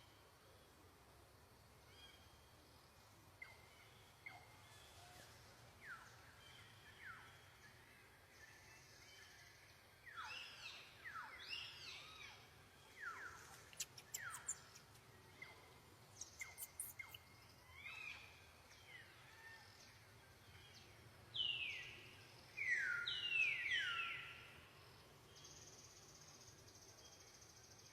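Animal calls: repeated short, high chirps that each sweep down in pitch, scattered and loudest in a cluster near the end, over a faint steady background hiss.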